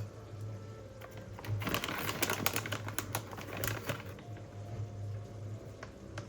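A burst of rapid small clicks and rustling, lasting about two seconds, over a steady low hum.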